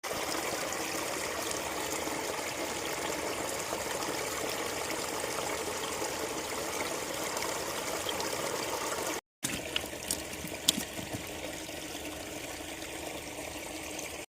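Water flowing steadily in a village canal. After a cut about nine seconds in, the flowing water is a little quieter, with a few sharp clicks.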